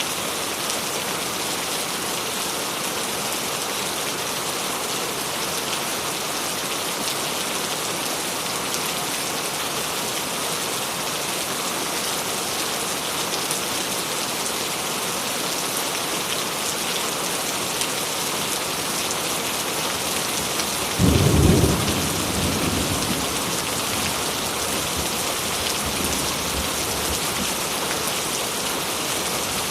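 Steady heavy rain, an even hiss throughout. About two-thirds of the way through, a sudden crack of thunder, the loudest thing heard, rumbles away over the next few seconds.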